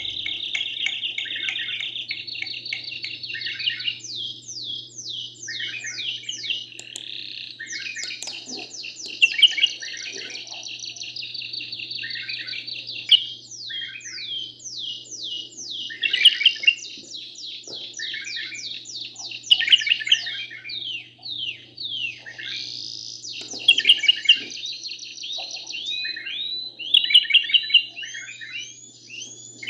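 Canary singing a continuous song of rapid trills and runs of quick, repeated falling notes, high-pitched, with a steady low hum underneath.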